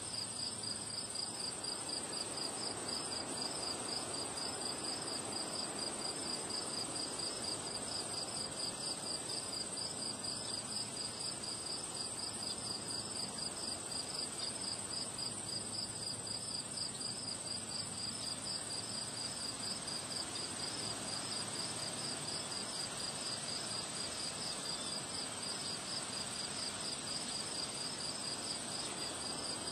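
Crickets chirping continuously: a steady high-pitched trill over a lower, evenly pulsed chirping, with a soft wind rush underneath.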